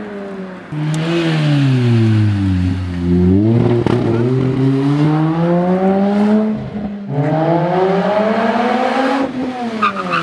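Lotus Exige sports car engine working up mountain hairpins: the revs fall as it slows for a bend, then climb through the gears, with a brief drop in revs about seven seconds in. Near the end the car passes close by and its engine pitch falls.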